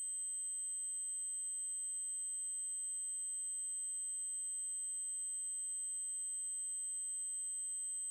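Synthesized 8192 Hz triangle-wave test tone: a single steady high-pitched tone held unchanged.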